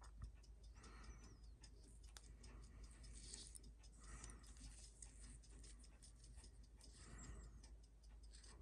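Near silence with faint, steady ticking, several ticks a second, and a little soft rustle.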